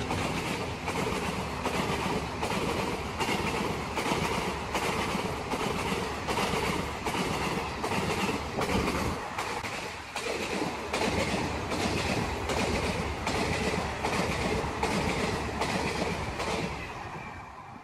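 Indian passenger train coaches rushing past at speed, their wheels beating a regular clickety-clack over the rail joints. The sound fades near the end as the last coach goes by.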